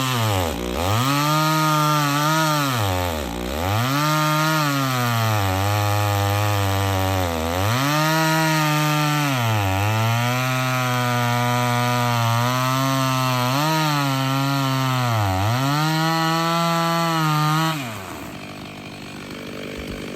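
Two-stroke chainsaw cutting through a log. The engine speed dips sharply and picks back up several times, then the saw stops about eighteen seconds in.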